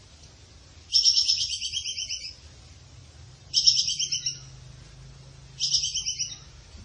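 Bird calling in three rapid chattering trills of quick repeated notes, each lasting about a second and a half and trailing off, about two seconds apart.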